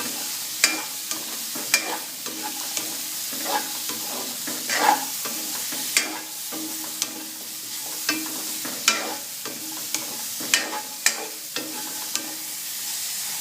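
Garlic, lemongrass, ginger and freshly added onion sizzling in hot oil in a wok while being stirred. A spatula clacks and scrapes against the pan at irregular intervals.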